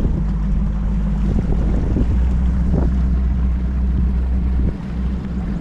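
Boat's outboard motor running steadily, with wind rushing over the microphone; the level dips briefly near the end.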